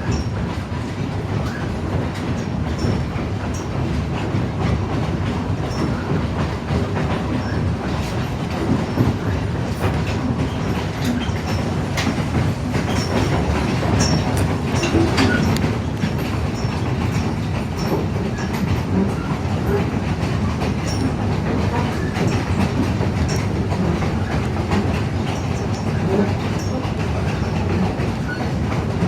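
Narrow-gauge passenger train rolling steadily along the track, a continuous rumble with scattered clicks and clacks of the wheels over the rails and occasional brief squeaks.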